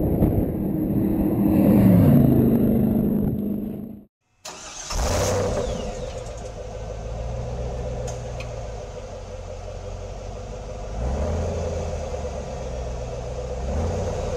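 A Cobra's V8 engine passing at speed, its note falling as it goes by, then cut off abruptly. After that, several Cobra V8 engines idling together, revs rising briefly about eleven seconds in.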